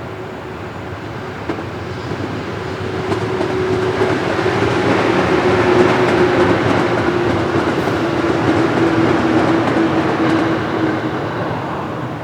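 Freight train hauled by an electric locomotive passing by, with rolling wheel noise and a steady hum. It grows louder to a peak about six seconds in, then fades.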